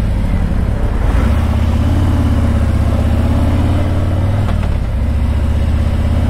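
Harley-Davidson Tri Glide trike's V-twin engine running steadily under way, picking up a little about a second in and briefly dipping around four and a half seconds in.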